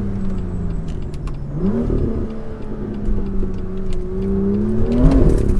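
BMW M2's N55 turbocharged straight-six under way, heard inside the cabin: the engine note climbs about two seconds in, holds steady, then climbs and drops again near the end.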